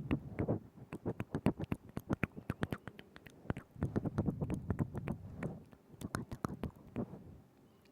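Close-miked ASMR mouth sounds: a quick run of wet tongue clicks and lip smacks with soft moist mouth noise between them, thinning out toward the end.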